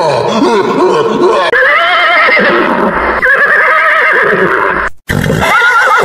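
A horse whinnying: a long, wavering call from about a second and a half in, then another shorter call after a brief break near the end. Before it come the last of some low grunting animal calls.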